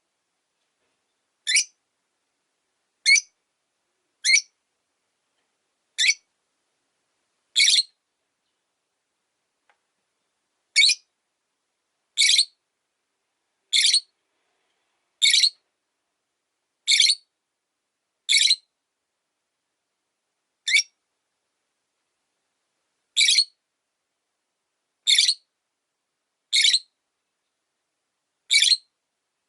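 Rosy-faced lovebird giving short, high-pitched single chirps, repeated about every second and a half, with a few longer pauses.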